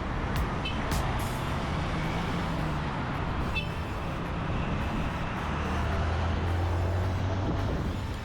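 City road traffic: motor vehicles running and passing in a steady noise, with a heavier engine's low hum standing out for a couple of seconds after about five and a half seconds in.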